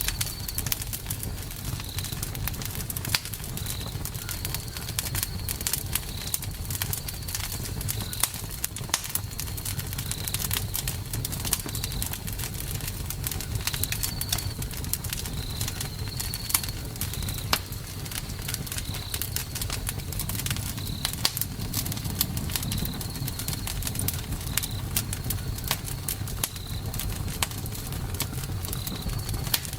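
Campfire burning: wood crackling and popping over a steady low rumble of flames, with a short high chirp repeating every second or two.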